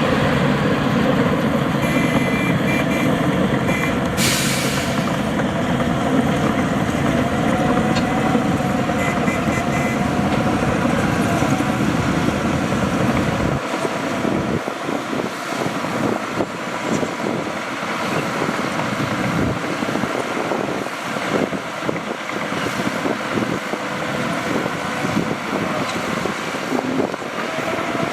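Heavy diesel dump truck engine running, with a short air hiss about four seconds in and faint intermittent reversing beeps. The deep rumble drops away abruptly about halfway through, leaving a lighter engine sound.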